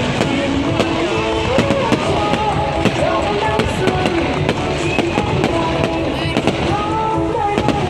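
Fireworks going off in quick, irregular bangs and crackles, several a second, over music playing throughout.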